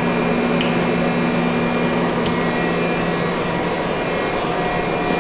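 Mighty Viper V-1600 vertical machining center running with its coolant on: a steady hum of motors and pumps over a hiss of flowing coolant, with a few faint ticks.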